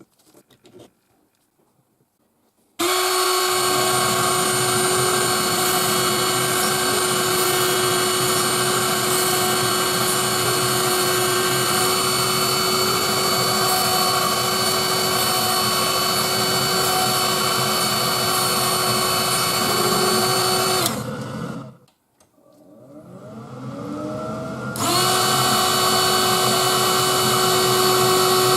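Spindle motor of a DIY CNC engraver running at a steady high whine. It winds down and stops about two-thirds of the way through, then spins back up with a rising whine and runs steady again.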